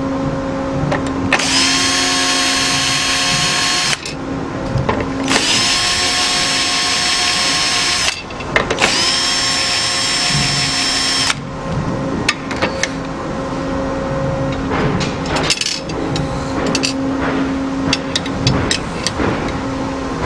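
Power drill run in three bursts of about two and a half seconds each, each spinning up and then holding a steady whine, followed by scattered clicks and taps of work on the part, over a steady low hum.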